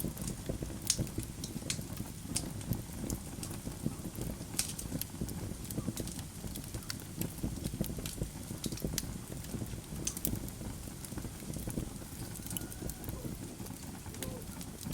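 Wood logs burning in a fireplace: a steady low rumble of flames, with irregular sharp crackles and pops from the burning wood.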